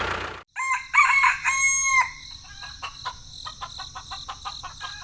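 A rooster crowing: a multi-part crow that ends about two seconds in, followed by a run of short, faint clicks.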